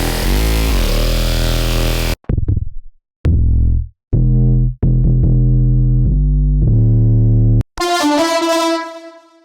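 Vital software synthesizer bass presets being played. First comes a loud, noisy bass with wobbling pitch that cuts off suddenly about two seconds in. Then comes a run of short, deep bass notes with brief gaps between them. Near the end a brighter, keys-like tone fades away.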